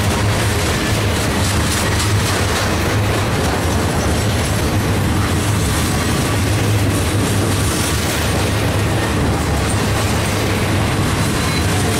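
Freight train boxcars rolling past close by: a steady, loud rumble of steel wheels on rail.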